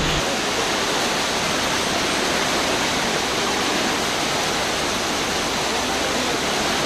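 Steady, unbroken rush of heavy rainwater in a downpour. A low engine hum cuts out just after the start.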